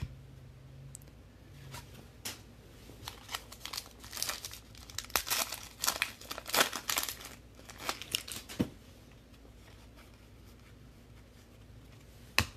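Plastic wrapper of a trading-card pack crinkling and tearing as the pack is opened by hand. There is a dense run of sharp crackles and rustles for several seconds, then it stops, with a single click near the end.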